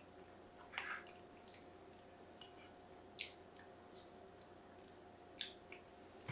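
Close-miked chewing of soft, cheesy baked pasta: a few scattered wet smacks and mouth clicks, one sharp one about three seconds in, over a faint steady hum.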